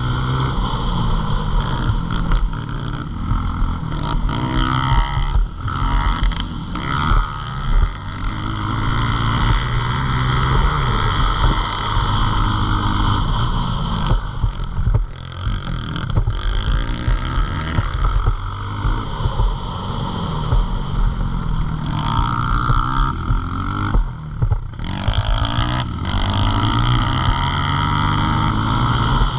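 Pit bike engine revving, its note climbing and falling again and again as the throttle is opened and closed, with short drops where the throttle is shut off.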